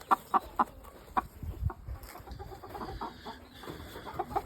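Game chickens clucking: a quick run of short clucks at the start, a few more near the end, with a couple of low thumps in between.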